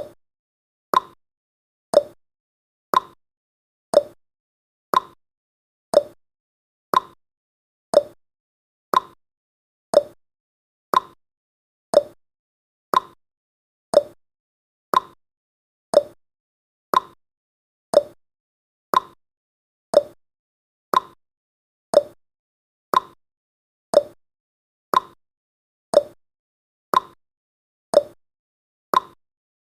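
Clock-style ticking sound effect of a countdown timer: one short, sharp tick every second, evenly spaced, with silence between ticks.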